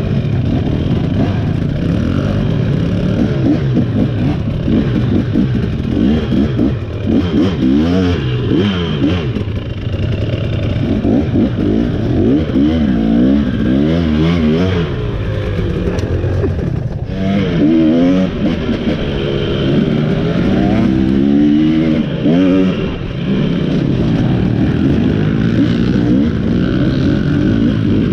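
KTM 300 XC two-stroke dirt bike engine being ridden, revving up and dropping back again and again as the throttle is worked, its pitch repeatedly rising and falling.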